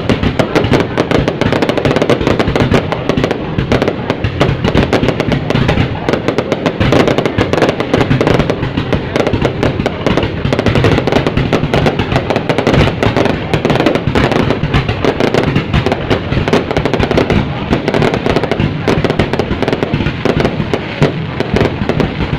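Fireworks going off in a dense, continuous barrage of rapid, overlapping bangs.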